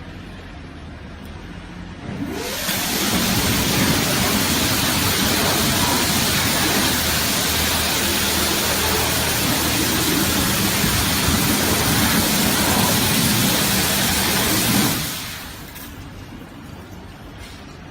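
DY-W360 automatic car wash machine spraying high-pressure water: a loud, steady hiss that starts about two seconds in and stops near fifteen seconds, over a low machine hum.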